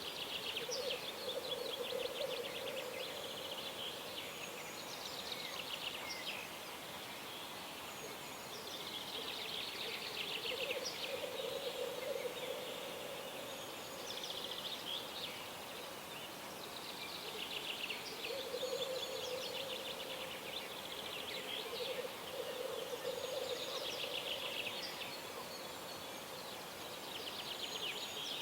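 Birds singing at dawn: high, fast trilling phrases over and over, with a lower bubbling call in long phrases of a few seconds that comes back several times.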